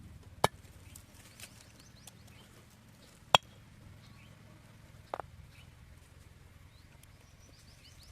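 Two sharp knocks about three seconds apart and a fainter knock a couple of seconds later, over a low steady rumble.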